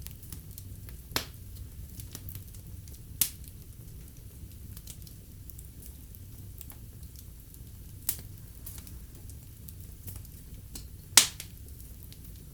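Wood fire burning in a fireplace: a steady low rumble of flames with small crackles and four loud sharp pops from the burning logs, the loudest near the end.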